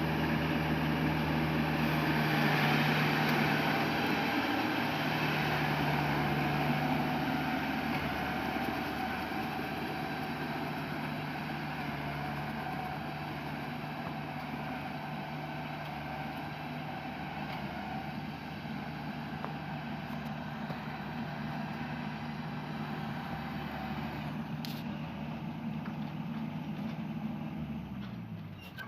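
Small engine of a rice-harvest machine running steadily at speed, then slowing and winding down near the end.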